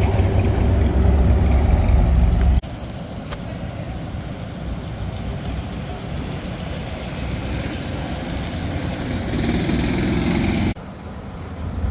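Car engines running, loudest in the first couple of seconds as a deep low rumble. The sound changes abruptly about two and a half seconds in and again near the end, dropping to a quieter engine sound.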